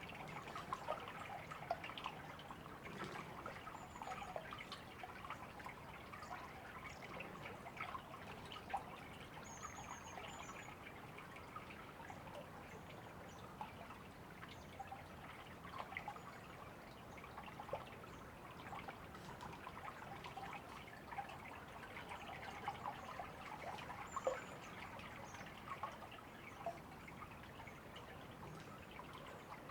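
Shallow river babbling and trickling over stones, a faint, even rush with many small splashes. A few short, high bird chirps come through twice, about a third of the way in and again near the end.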